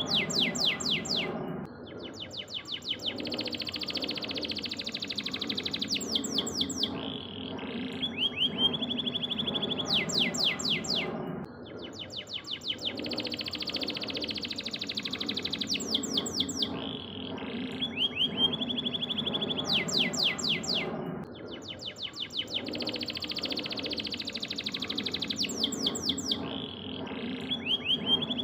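Domestic canary singing a long song of fast trills, rising and falling whistled sweeps and held high notes. The same song phrase repeats about every ten seconds, as in a looped masteran (training) recording for teaching other songbirds.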